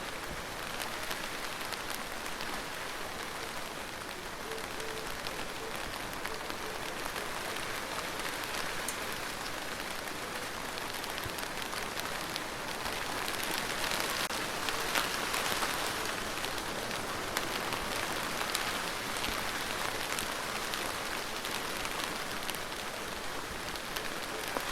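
Steady rain falling, with many individual drop impacts heard as small ticks. It is a little louder through the middle stretch.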